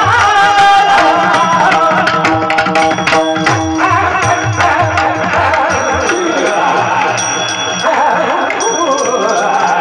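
Male voice singing a devotional kirtan melody in wavering, ornamented runs, over a steady held drone tone and repeated hand-drum strokes.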